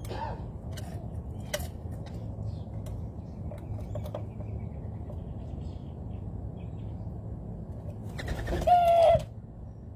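Birds at a backyard feeder: a few faint short calls and clicks over a steady low background, then near the end a loud call about a second long on one steady pitch.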